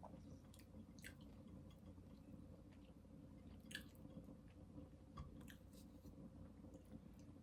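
Faint chewing of food, with a few soft, short clicks about a second in, near the middle and again a little later, over a low steady hum.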